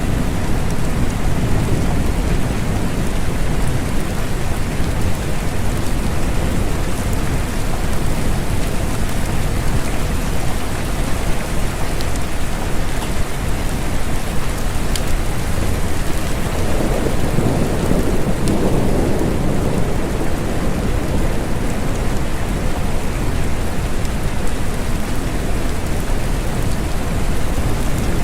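Steady rain falling, with a low rumble of thunder that swells up a little past the middle and fades after a few seconds.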